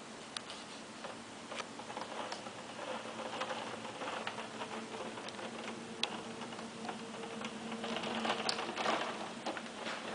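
Hailstones and rain striking hard surfaces: a dense patter of sharp ticks over a steady hiss, growing heavier near the end.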